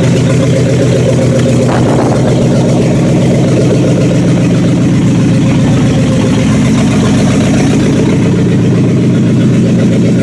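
Freshly rebuilt Dodge 318 cubic-inch V8 running at a steady cold idle on open exhaust manifolds, with no exhaust pipe fitted.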